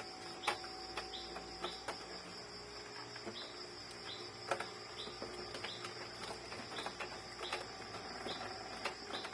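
Steady high-pitched drone of insects with short chirps repeating every second or so, and scattered light clicks and taps from handling printer parts.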